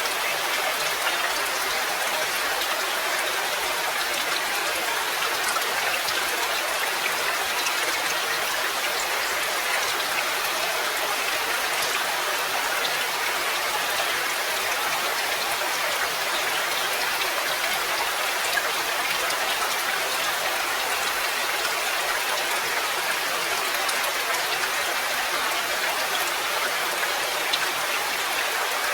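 Steady rain: an even hiss of many drops with faint individual drop ticks and little low rumble.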